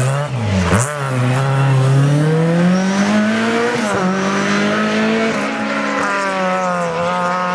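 Rally car engine pulling hard. Its pitch climbs steadily, drops sharply at an upshift about four seconds in, then holds fairly steady.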